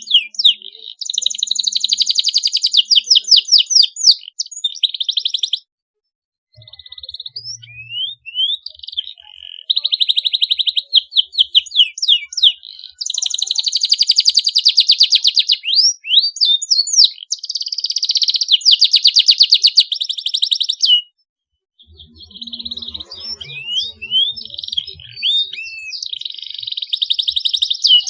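Canary singing: long, fast rolling trills alternating with quick upward-sweeping chirps, high-pitched and loud, broken by two brief pauses, about six seconds and twenty-one seconds in.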